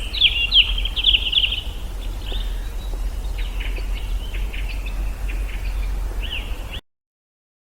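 Small birds chirping and twittering, a quick run of notes at first and then scattered calls, over a steady low hum; everything cuts off abruptly near the end.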